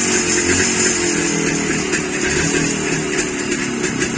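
Jawa motorcycle's two-stroke engine running just after a cold start, with a slightly wavering beat; the engine is still icy cold after standing for a couple of days.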